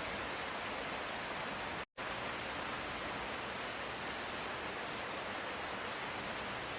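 Light rain falling as a steady, even hiss, cut to silence for a split second about two seconds in.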